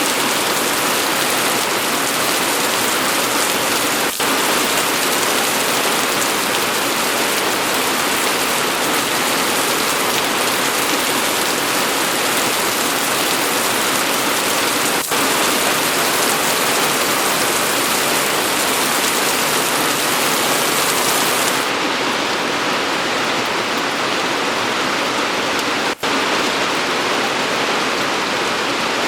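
Steady, dense rainfall: a constant hiss of rain pattering on surfaces. It dips for an instant three times, about 4, 15 and 26 seconds in.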